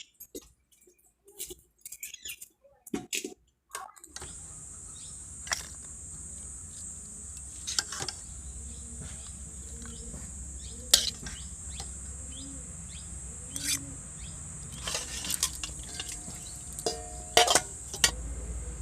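Outdoor rural ambience: a steady high-pitched insect drone sets in about four seconds in, with occasional bird chirps and scattered sharp clicks and taps.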